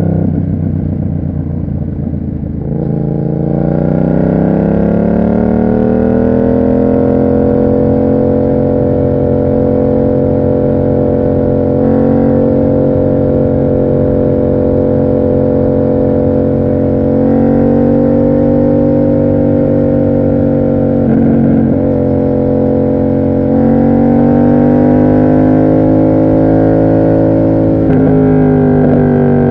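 Yamaha MT-07 parallel-twin engine through an SC Project aftermarket exhaust, rising in pitch as the bike accelerates a few seconds in. It then holds a steady cruising note, with small throttle changes and a brief dip about two-thirds of the way through.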